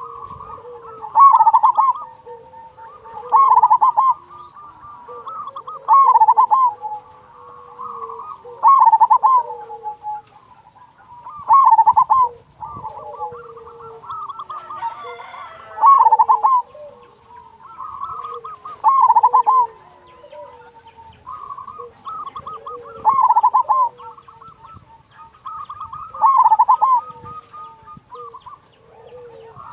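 Zebra dove (perkutut) cooing: a repeated phrase of soft rolling notes that ends in a loud, clear 'kung' note, about every two and a half seconds.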